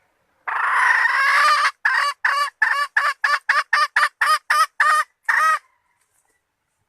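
A female red junglefowl calling: one long note, then a run of about a dozen short clucking notes at roughly three or four a second. It is the hen's call that draws in males, used as a trapping lure.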